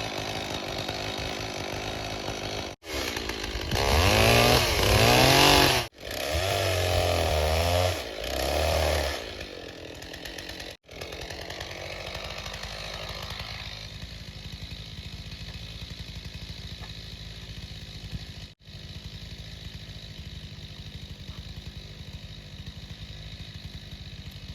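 Small gasoline engine running, revved up and down several times near the start, then running more steadily and quietly. The sound drops out briefly a few times.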